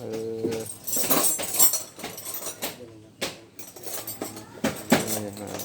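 Light clinks and knocks of hard parts being handled, a handful of sharp taps spread over a few seconds, the sharpest near the end.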